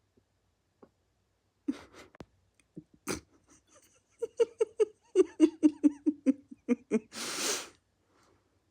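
A person laughing in quick breathy bursts, about five a second, ending in a sharp rush of breath. A few soft knocks come before it.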